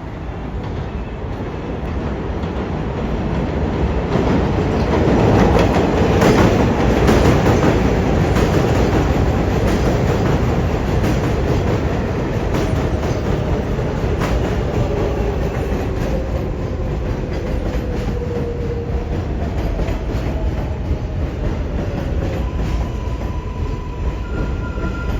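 R188 subway train of the 7 line pulling into the station: the wheels clatter over rail joints, the sound building to its loudest a few seconds in. A faint falling whine follows about halfway through as the train slows.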